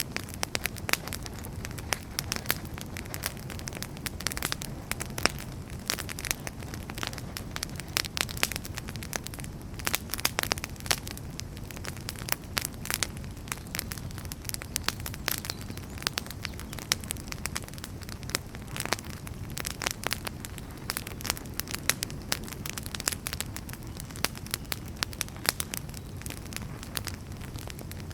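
Wood fire burning in a fireplace: dense, irregular crackles and pops from the burning firewood over a steady low rumble of the flames.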